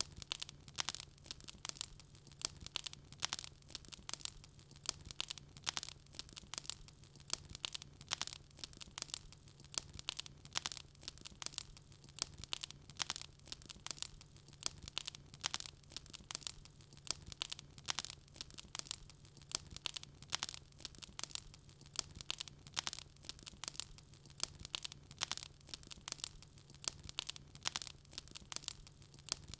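Wood fire crackling: a dense, irregular stream of sharp pops and snaps from burning logs, over a faint low hum.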